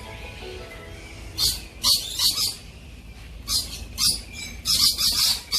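Birds calling in a walk-through aviary: short, sharp chirps that start about a second and a half in and come in quick clusters, several a second near the end.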